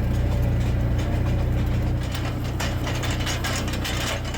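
A vehicle engine running steadily with a low hum, with rattling and clicking from about halfway through.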